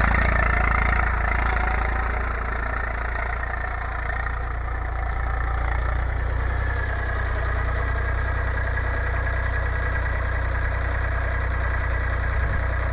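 Eicher 380 tractor's diesel engine running steadily at an even speed.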